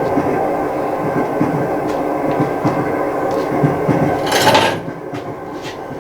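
Steady rolling train noise with many held tones. About four and a half seconds in there is a short loud hiss, and after it the rumble carries on more quietly.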